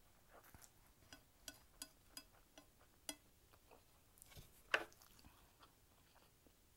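Faint, wet mouth clicks of someone chewing a mouthful of Indomie Mi Goreng instant noodles, about two a second, with one louder, slightly longer mouth sound a little past the middle.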